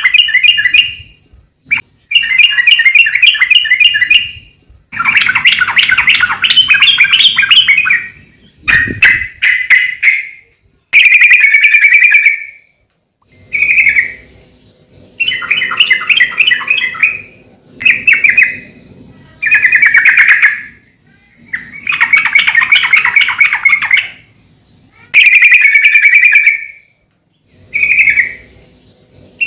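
Yellow-vented bulbul (trucukan) singing loudly and vigorously: repeated phrases of rapid chattering notes, each a second or two long, with short pauses between them.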